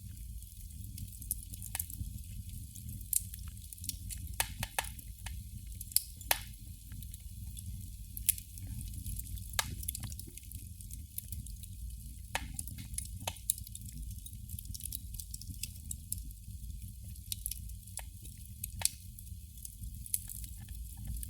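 Candle flame crackling: small, irregular pops and ticks, a few a second and unevenly spaced, over a steady low rumble.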